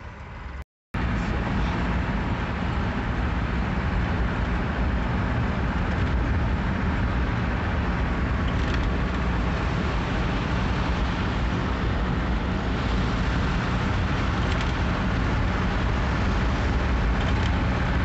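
Cabin sound of a 1955 Oldsmobile fitted with a 2.5-litre Mitsubishi diesel, driving at a steady speed: the diesel engine running steadily under light load, mixed with road and wind noise.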